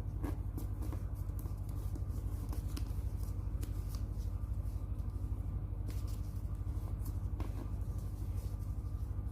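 A sheet of paper being folded and creased by hand, with irregular short crinkles and rustles. A steady low hum runs underneath.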